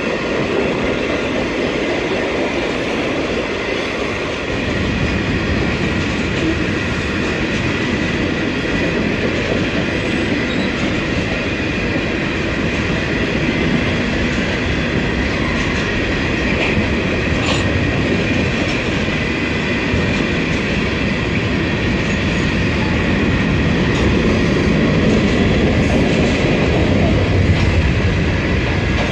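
Freight train cars rolling past close by: a steady rumble of wheels on rail with clattering over the joints and a thin, steady high ringing tone above it. The low rumble grows heavier about four seconds in.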